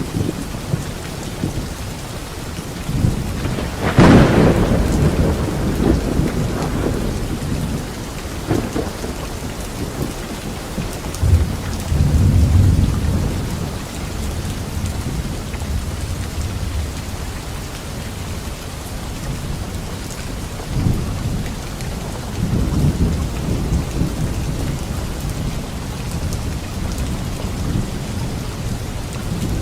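Steady rain with rolling thunder. A sharp thunderclap comes about four seconds in, and further low rumbles swell later, around twelve seconds and again past twenty.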